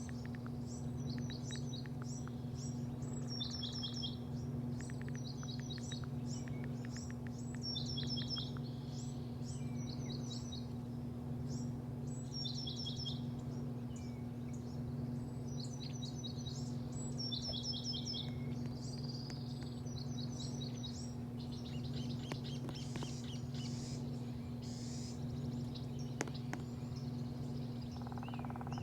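A small bird chirping in short repeated series of quick falling notes, a phrase every second or two, fading out about two-thirds of the way through, over a steady low hum.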